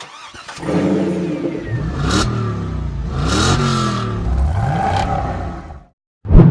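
Race car engine running hard, its pitch rising and falling several times as it revs and changes gear. It cuts off suddenly just before the end, where a loud drum hit from music comes in.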